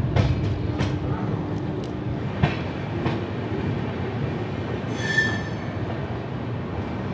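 Passenger train carriage rolling on the track as it pulls into a station, with a steady rumble and several sharp clicks of the wheels over rail joints in the first three seconds. A brief high squeal comes about five seconds in.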